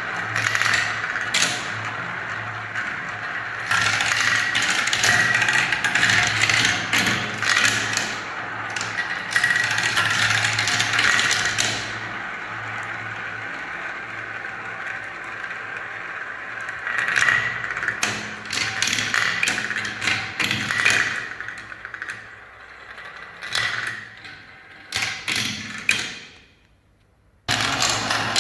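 Marbles rolling and clattering down a spiral-ramp marble run, a dense stream of rolling noise and sharp ticks over a steady low hum. Near the end the rolling thins out, stops briefly, then starts again abruptly.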